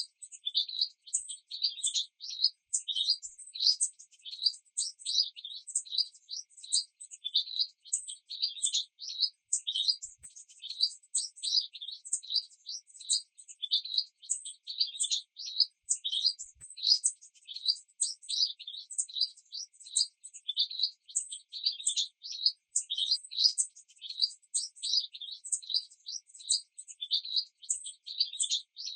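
Small birds chirping, a dense, unbroken run of short, high chirps several times a second, with no rain or other sound beneath them.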